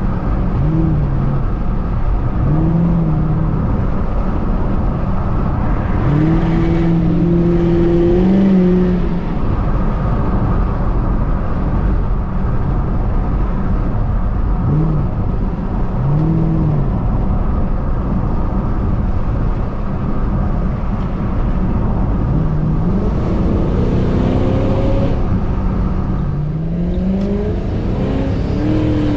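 Supercharged 4.6-litre V8 of a 2006 Ford Mustang GT, heard while the car is driven on the road. The engine note holds and falls back with the throttle, then rises twice in pitch near the end as the car accelerates.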